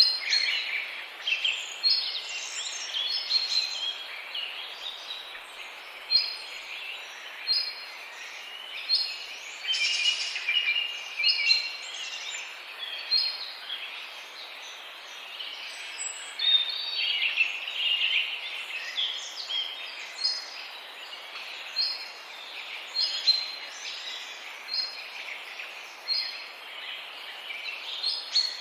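Outdoor birdsong over a steady background hiss: one bird repeats a short high chirp about every second and a half, while other birds chatter and chirp in between.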